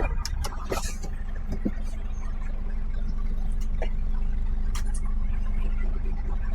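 HGV diesel engine running as the lorry moves off slowly, a steady low rumble that builds slightly, with a few sharp clicks near the start and midway.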